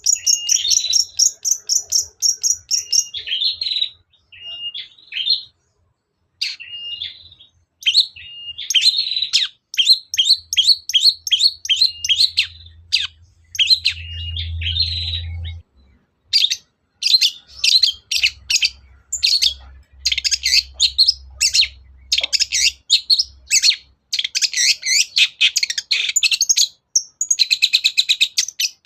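Long-tailed shrike (cendet) singing a fast, chattering song of rapid repeated high notes in long runs, broken by a couple of short pauses.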